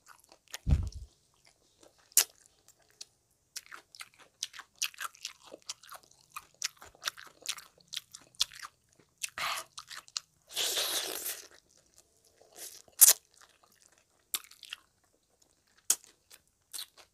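Close-up crunching and chewing of fried frog pieces eaten by hand, in irregular crackling bites. One denser crunch lasts about a second, roughly two-thirds of the way through, and there is a low thump about a second in.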